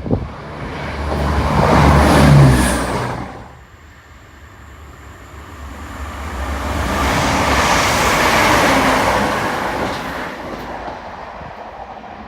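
Diesel trains passing through a station at speed: the first with a low engine drone that swells to a peak about two seconds in and drops away sharply, then a second, longer rushing pass that builds to a peak around eight seconds in and slowly fades.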